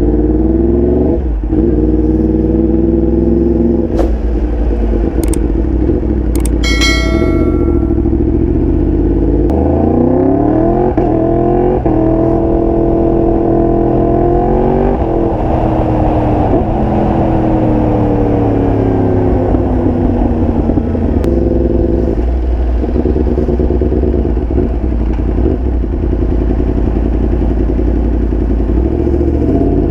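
Motorcycle engine under way, its pitch climbing in steps as it shifts up through the gears and then falling slowly as it slows. About seven seconds in there is a brief high-pitched tone.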